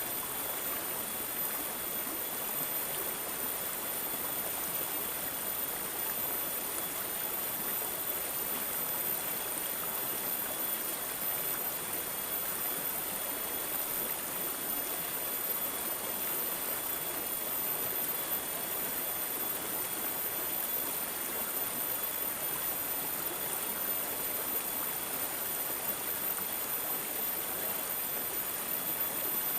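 Water trickling and gurgling steadily, like a small stream, an even unbroken rush with no separate splashes.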